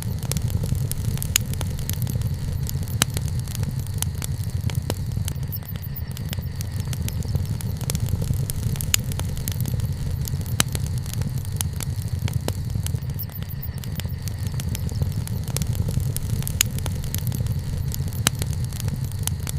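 Wood fire burning, with sharp crackles and pops at irregular moments over a steady low rumble.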